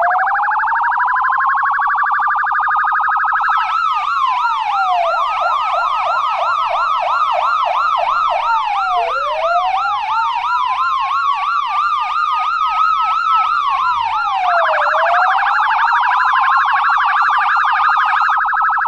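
US police car electronic siren. It starts in a slow rising-and-falling wail, switches to a fast yelp a few seconds in, and goes back to the wail near the end, with a second fast warbling tone running underneath.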